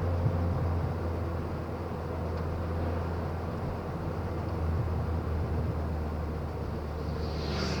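Ford Fiesta Mk6 running with a steady low drone and a faint steady tone over it, with a short hiss near the end. This is the strange noise from the wheel area that was traced to a driveshaft at the end of its life.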